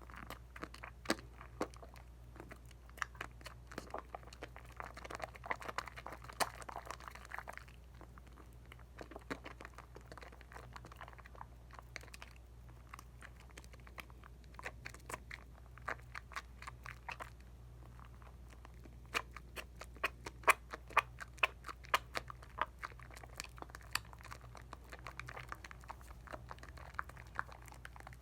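Hands lathering a bar of Dial coconut soap: wet crackling and squishing of soap suds, a dense run of small pops and clicks with stretches of softer rubbing hiss. The crackles thicken into rapid clusters about two-thirds of the way through.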